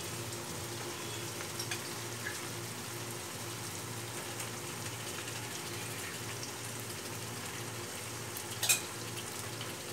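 Yogurt-marinated chicken pieces sizzling gently in hot oil and spice paste in a pan, a steady low hiss, with one short knock about nine seconds in.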